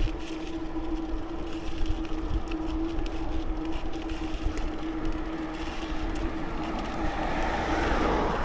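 Riding a bicycle on a paved path: wind rumbles on the microphone over tyre noise, with a steady hum throughout. A swell of hiss builds near the end.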